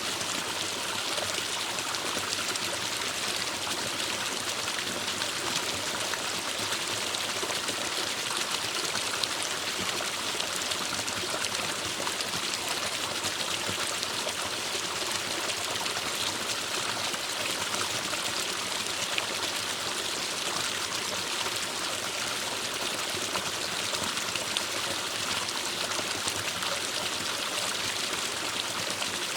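Forest stream flowing over rocks: a steady, even rush of running water, with trickling and splashing in it.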